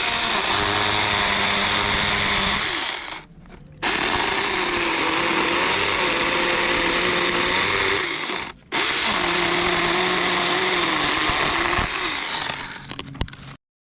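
Battery-powered mini chainsaw running in three bursts, trigger released twice in between; its motor pitch dips and wavers while it runs, and it dies away near the end.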